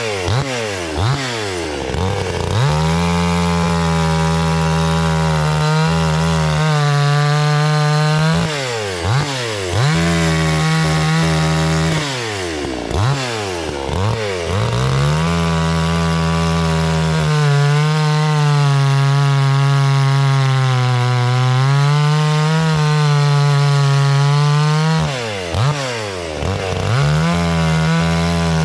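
Husqvarna 460 Rancher 60.3 cc two-stroke chainsaw running at full throttle as it cuts through wood. Several times the engine note drops sharply and climbs back up as the throttle is let off and opened again between cuts.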